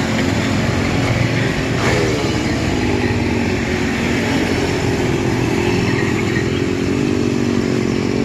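Small 49cc two-stroke mini bike engine running steadily, with a brief change in engine speed about two seconds in.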